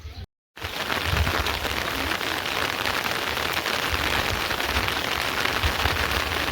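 Heavy rain falling steadily, a dense even hiss that starts after a brief drop to silence about half a second in.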